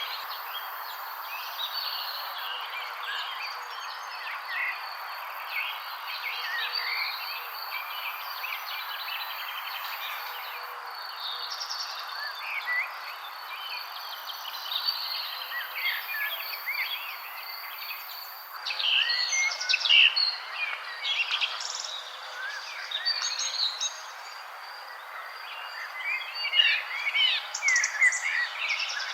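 Several small birds chirping and trilling in quick, overlapping calls over a steady background hiss, busiest about two-thirds of the way in and again near the end.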